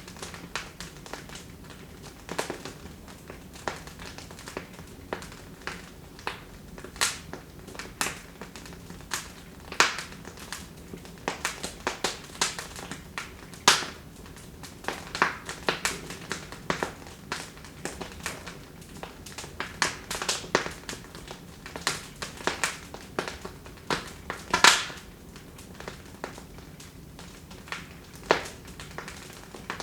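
Wood fire burning in a fireplace, crackling with irregular sharp pops and snaps over a low steady hiss. The loudest pops come about ten, thirteen and twenty-four seconds in.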